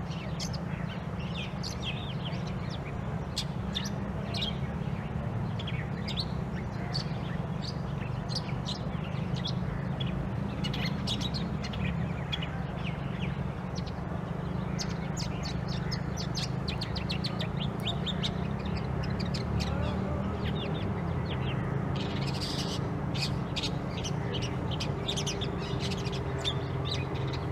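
Long-tailed shrike (burung pentet) calling: many short, rapid notes in quick succession over a steady low background rumble.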